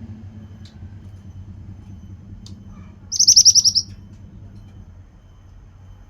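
A mantenan (pied bushchat) singing one fast, high-pitched trill of about ten rapid notes, beginning about three seconds in and lasting under a second. It sings over a steady low hum.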